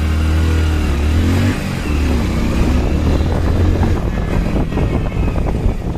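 Motorcycle engine accelerating in traffic, its pitch rising and falling as it revs through the gears, over road and wind noise.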